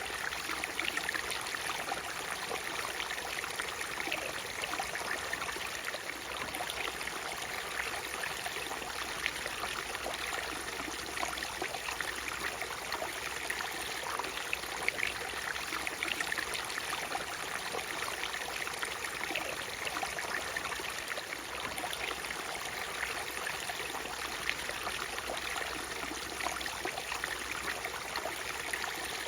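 Water from a small natural waterfall flowing and splashing steadily, a constant rush full of small crackling splashes.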